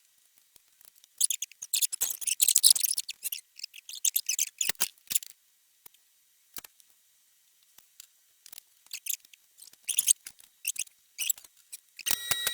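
Light clicks and small metallic rattles from spark plug wires and their metal heat-shield sleeves being handled and fitted, in a few short bursts with pauses between.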